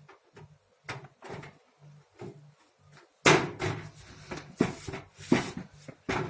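Fresh gas water heater being tested on compressed air after a diaphragm repair: soft regular clicking about twice a second, then from about three seconds in a run of loud knocks and rushing noise.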